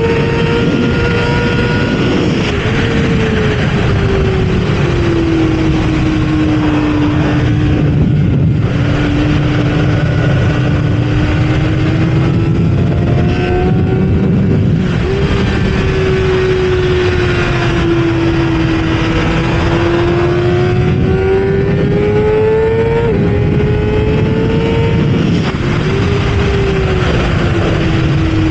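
Kawasaki ZX-6R's inline-four engine running hard on track, heard from onboard over heavy wind rush. Its pitch sinks slowly and climbs again over several seconds, with a few sudden drops and jumps at gear changes.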